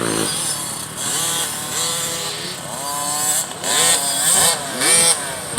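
Youth motocross dirt bikes racing, their engines revving up and falling off again several times as the riders accelerate and let off through the track.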